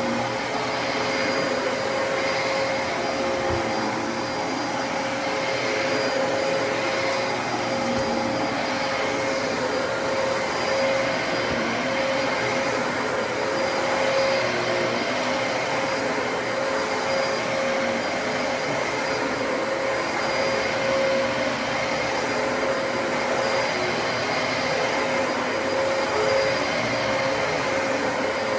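Dyson DC33 bagless upright vacuum cleaner running steadily, its motor noise carrying a constant whine.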